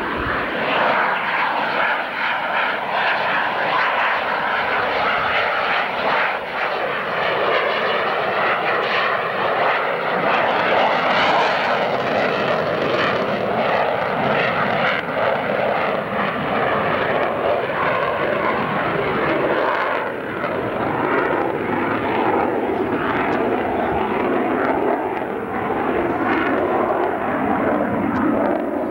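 Twin GE F404 turbofan engines of a CF-18A Hornet fighter jet running loud and steady as it flies past, a dense jet rush whose tone wavers and shifts slowly.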